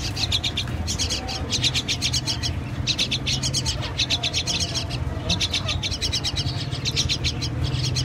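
Birds chirping: rapid runs of high-pitched chirps, about ten a second, coming in bouts of roughly a second with short breaks between, over a low steady hum.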